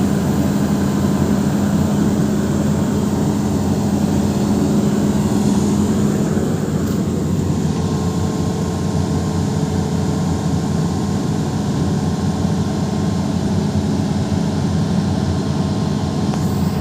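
Hitachi 210 excavator's diesel engine running steadily, its note easing slightly about six seconds in.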